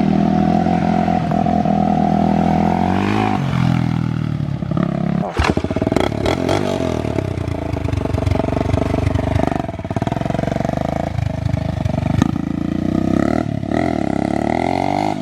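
Off-road vehicle engine running and revving, its pitch climbing and dropping with the throttle, with a few sharp clacks about five to six seconds in.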